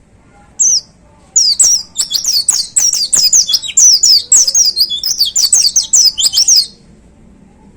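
White-eye (pleci) singing: one short high note, then about five seconds of loud, rapid song made of quick high notes that each slide downward, stopping abruptly.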